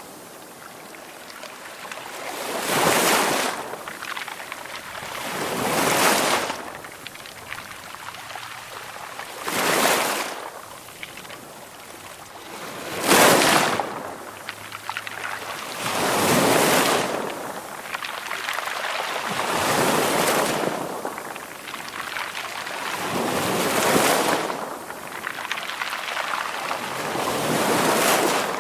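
Ocean waves breaking gently on the shore in a slow rhythm. Each wave swells into a hissing rush and fades, one every 3 to 4 seconds, about eight in all.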